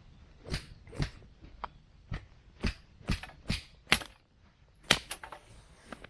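A series of about a dozen sharp knocks and clicks at an irregular pace, with a brief pause just past the middle.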